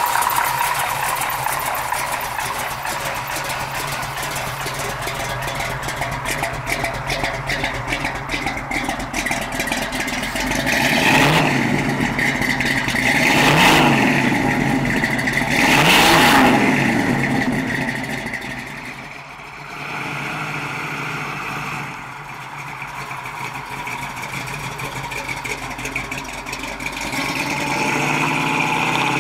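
1972 Chevrolet Camaro's 396 cubic-inch big-block V8 idling, revved three times in quick succession about halfway through, each rev rising and falling in pitch, then pulling away near the end.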